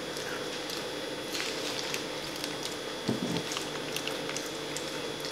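A person chewing a mouthful of hamburger: soft wet mouth sounds with small clicks, and a brief low voiced sound about three seconds in.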